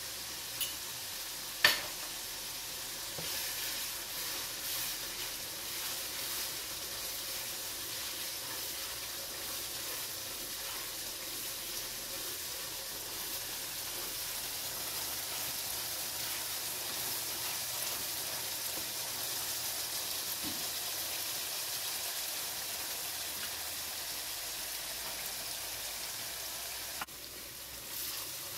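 Onion, ginger, garlic and ground spices sizzling in hot oil in a nonstick wok, stirred with a wooden spoon. A sharp tap about two seconds in stands out above the steady sizzle.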